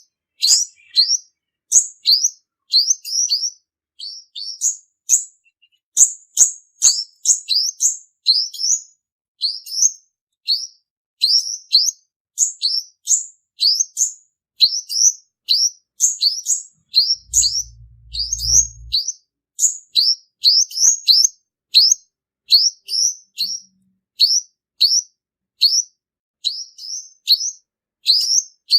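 Male olive-backed sunbird (purple-throated sunbird) calling: a rapid string of short, high, sharp chirps, two or three a second, without a break. A lure call for trapping. A brief low hum sounds about two-thirds of the way through.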